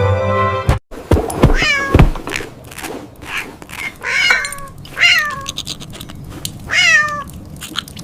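A cat meowing four times, each meow falling in pitch, with a few sharp knocks near the start.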